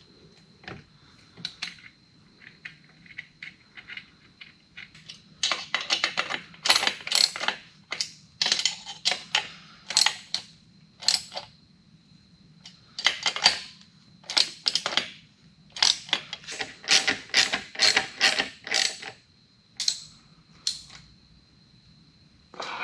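Hand ratchet wrench clicking in repeated quick bursts, tightening the motorcycle exhaust bolts, with a few lighter metal tool clicks between.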